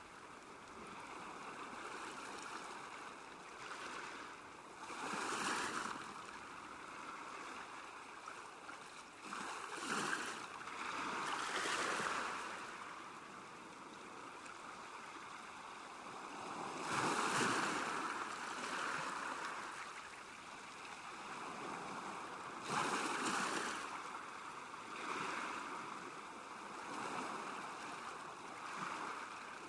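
Water lapping at a lakeshore: a steady wash with irregular swells every few seconds, the strongest about two-thirds of the way through.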